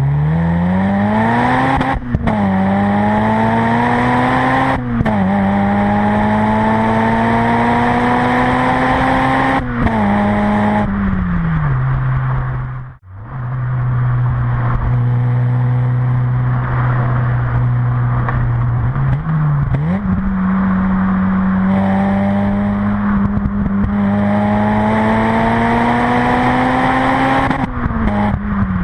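Honda Civic Type R EP3's 2.0-litre four-cylinder through a Fujitsubo RM-01A cat-back exhaust, pulling up through the revs with sharp drops at gear changes, holding steady revs for a while in the middle, then pulling up again.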